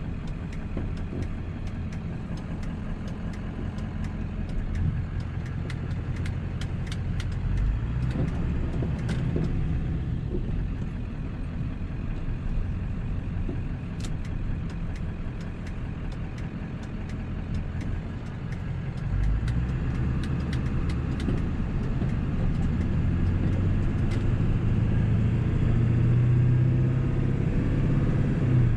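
1997 7.3 Powerstroke turbo-diesel V8 running while the truck is driven, over steady road noise, getting louder in the second half. A few light ticks and knocks sound here and there.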